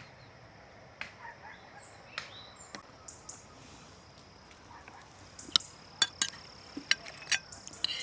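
Sharp clinks of tableware, metal against dishes: a few scattered ones, then a quick run of louder clinks in the second half, over a faint steady high tone.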